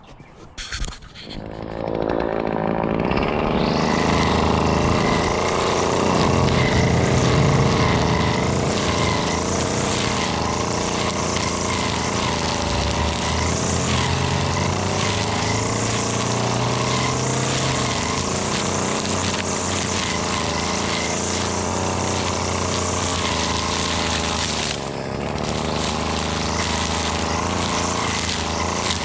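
String trimmer starting up about a second in, then running steadily at cutting speed, with a brief dip in level near the end.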